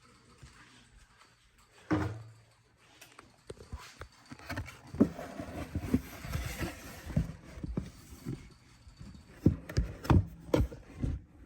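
Irregular knocks, taps and rustling, as of objects being handled, with a single louder thump about two seconds in.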